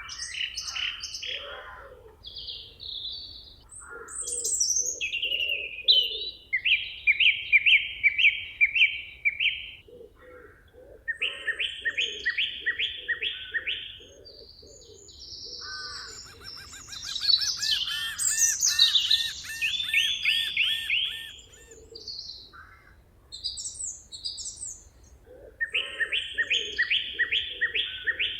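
Several forest birds singing together: phrases of quick, evenly repeated high notes come again and again, with a lower run of pulsing calls beneath them.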